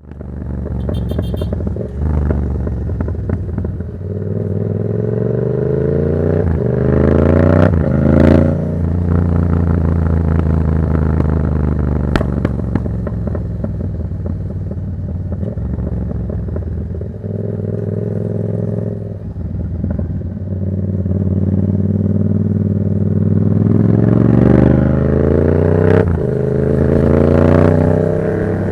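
Yamaha MT-07's 689 cc parallel-twin engine through a Black Widow aftermarket exhaust, ridden under way. The engine note climbs in pitch through the revs twice and drops back sharply after the first climb, with steadier running in between.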